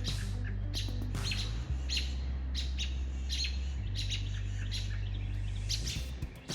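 Robins' sharp alarm calls repeated about twice a second, each a short high note that drops in pitch: the birds mobbing a perched hawk. A steady low hum runs underneath.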